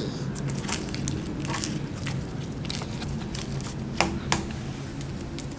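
Homemade clear slime being squished and stretched by hand: a run of sticky wet clicks and pops, with two louder pops about four seconds in.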